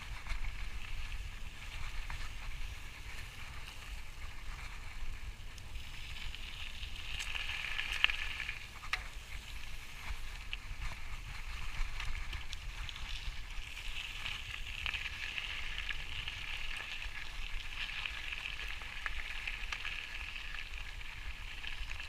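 Steady outdoor hiss in a high band that swells about a third of the way in and again in the second half, over a low rumble of wind on the microphone, with a few faint clicks.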